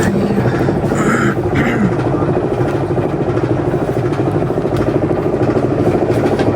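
A vehicle engine running steadily, a continuous low hum with a rough, fast-pulsing drone, and a couple of short hissing noises about a second in.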